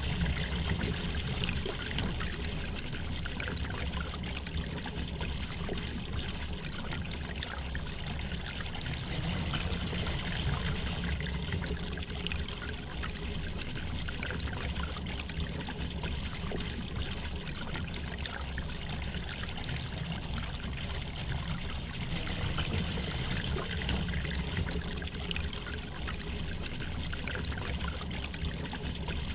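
River water flowing gently over stones, a steady babble with many small trickling splashes.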